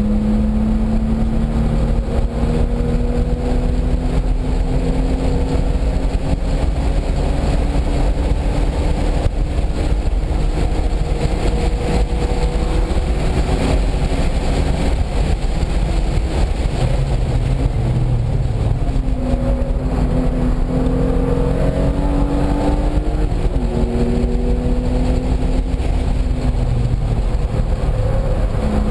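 A car's engine heard from inside the car as it is driven at speed on a racetrack. Its pitch climbs slowly for about the first half, then drops and rises again in shorter steps with gear and throttle changes, over steady wind and road roar.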